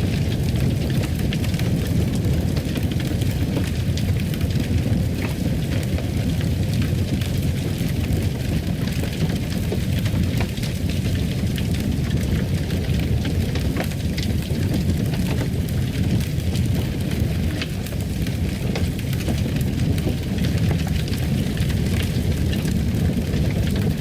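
Fireplace fire burning with a steady low rumble and scattered crackles and pops.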